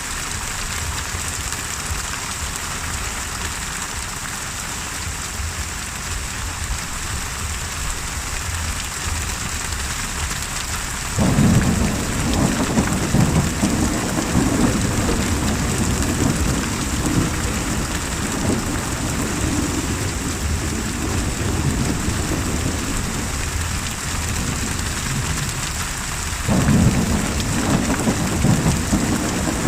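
Steady heavy rain throughout. About eleven seconds in, thunder sets in suddenly with a long low rumble for about fifteen seconds, and a second rumble starts near the end.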